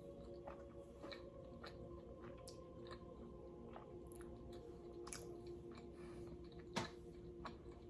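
Close-up chewing of nachos, with a run of sharp, irregular crunches of chips, the loudest one near the end.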